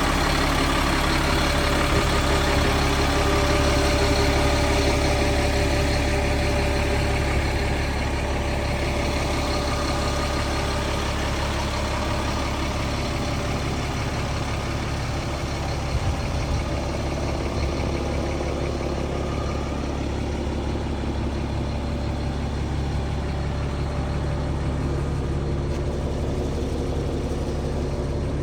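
Caterpillar 3126 inline-six diesel of an M1085A1 6x6 military cargo truck idling steadily.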